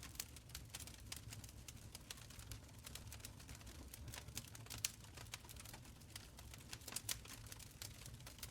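Wood fire crackling in a stone fireplace: a steady run of irregular sharp snaps and pops over a soft low rumble of the flames, with one louder pop about five seconds in.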